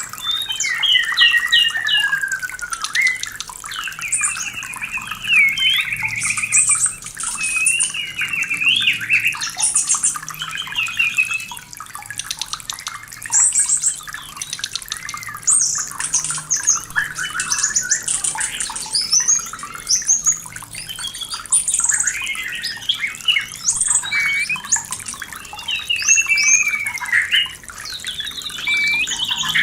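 White-rumped shama (murai batu) in breeding condition singing a continuous, varied song of whistled notes gliding up and down, with quick runs of short notes. A steady sound of running or splashing water goes on underneath.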